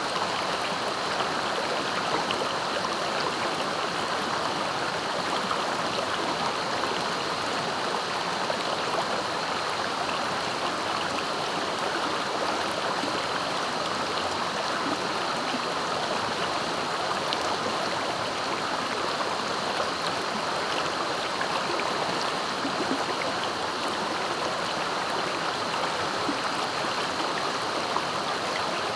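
Clear, swift-flowing river rushing and gurgling steadily over its bed.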